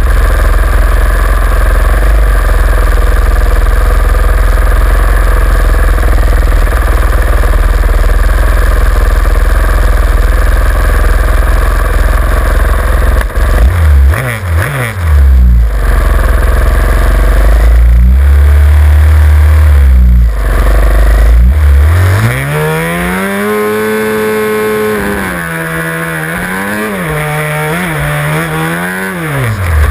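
A pack of supermoto motorcycle engines idling and blipping on the start grid, a loud dense rumble with bursts of revving. About three quarters of the way in one engine note climbs steeply in pitch and then steps through several quick gear-change dips as the bikes accelerate off the line.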